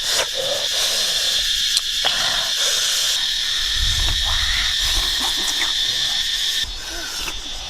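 Steady high-pitched buzzing of forest insects, such as cicadas, with low rustling and handling noise underneath.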